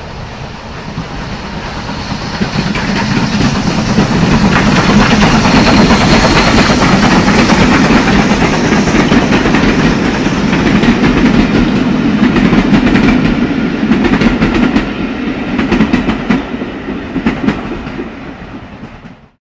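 A locomotive-hauled train passing by. Its rumble builds over the first few seconds, stays loud through the middle, then fades near the end, with the wheels clacking sharply over rail joints in the latter part.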